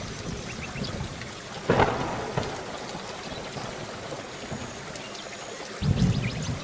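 Steady rain falling, with a sharp crack of thunder a little under two seconds in and a low thunder rumble starting near the end.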